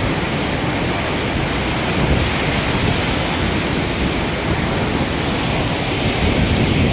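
Athirappalli Falls, the water falling and crashing heard close up: a loud, steady rush of noise with no break.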